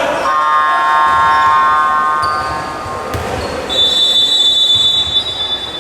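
Basketball arena sound: a steady electronic-sounding pitched tone lasting about two seconds, then a high steady whistle-like tone for about two seconds, over the din of the hall.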